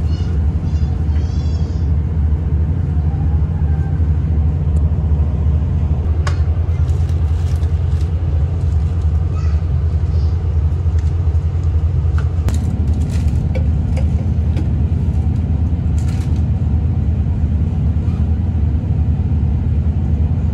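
Steady low rumble of a V/Line VLocity diesel railcar under way, heard from inside the carriage, with scattered clicks and knocks from the running gear. The droning note changes and grows stronger about twelve seconds in. A few short high chirps sound in the first two seconds.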